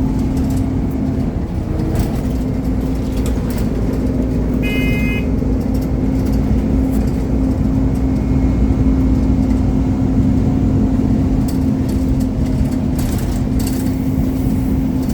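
Scania Omnicity single-deck bus's 230 hp Scania diesel engine running steadily, heard from inside the bus with scattered rattles and clicks. About five seconds in, a brief high-pitched tone sounds for about half a second.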